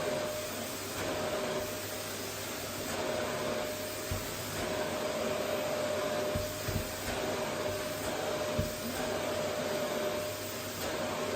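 Vacuum cleaner running steadily on a wooden floor, a constant whooshing rush with a steady whine, broken by a few soft low thumps past the middle.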